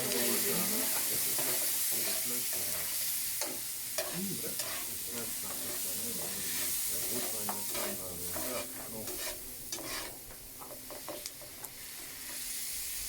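Garlic sizzling in a pan while a spoon stirs it, with repeated scraping and clicking of the spoon against the pan over a steady frying hiss.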